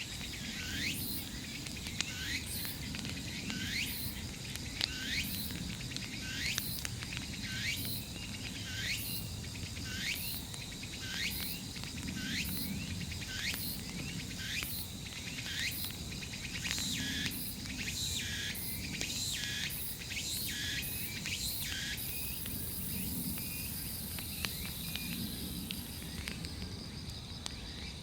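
Large wood bonfire crackling with a low rumble. Over it a creature repeats a short chirp that rises in pitch, about one and a half times a second, until it stops about 22 seconds in. A steady high insect trill and faster high pulses run underneath.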